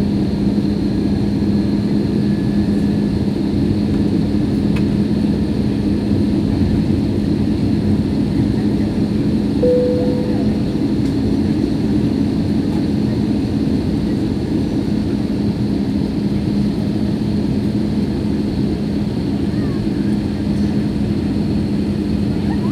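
Steady drone inside an airliner cabin on descent: jet engine and airflow noise with a constant low hum underneath. A brief short tone sounds about ten seconds in.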